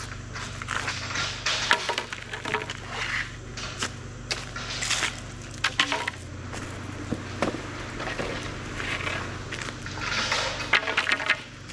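Footsteps crunching and crackling through dry leaves and brush, at an irregular pace. Under them, a Kubota KX040 mini excavator's diesel engine runs steadily.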